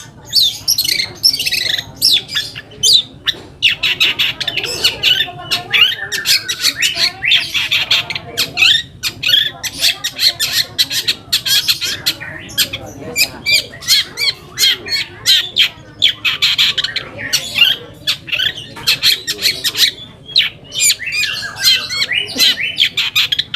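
Long-tailed shrike (cendet) singing a rapid, harsh chattering song of many short notes, kept up with only brief pauses.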